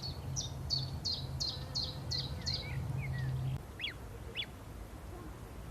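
A small bird singing a run of about eight quick high notes, evenly spaced, followed by a few scattered chirps. A low steady hum runs underneath and stops about three and a half seconds in.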